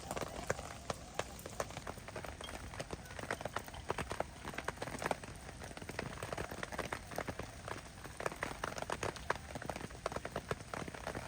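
Rain falling, with many large drops striking a surface in irregular, scattered clicks over a steady hiss.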